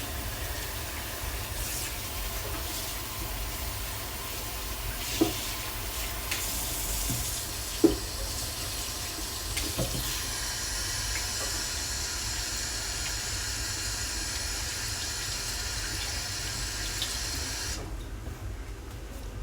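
Kitchen tap running into the sink as a steady hiss, with a few light knocks of things handled in the sink, then turned off sharply near the end.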